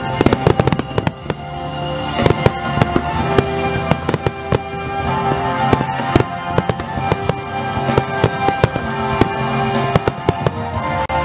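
Fireworks display: aerial shells and rising comets going off in many sharp bangs, a dense flurry in the first second and then scattered through the rest. Music plays steadily underneath.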